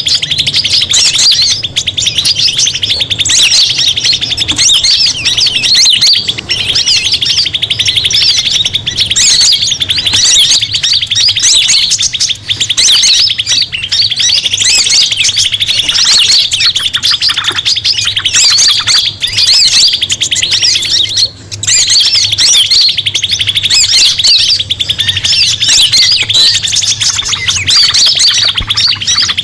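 Bird-lure recording of a noisy commotion of birds: a dense, continuous chorus of rapid, loud chirping calls, with a low hum underneath and a brief break about three-quarters of the way through.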